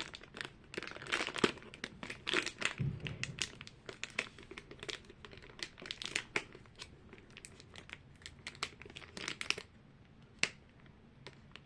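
Plastic toy packaging crinkling and crackling in quick, irregular handfuls as it is handled and pulled open. The crackles stop about ten seconds in, leaving one more click near the end.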